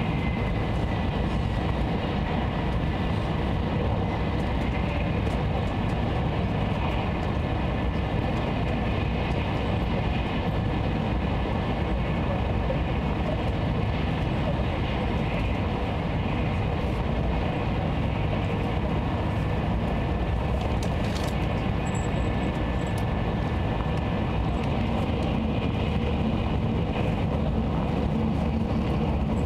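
Nozomi Shinkansen bullet train running at high speed, heard inside the passenger cabin: a steady, unbroken rumble and rush with a faint steady whine above it.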